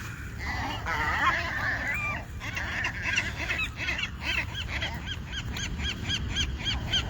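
Seagulls calling over one another as they go for thrown bread, settling into a long run of short, repeated calls, about three or four a second.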